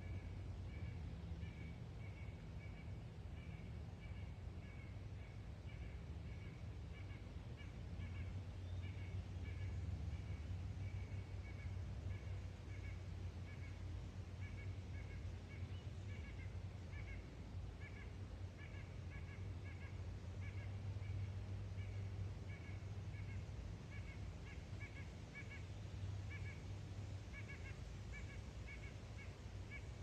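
A bird calling in short, high chirps, several a second and without pause, over a steady low rumble.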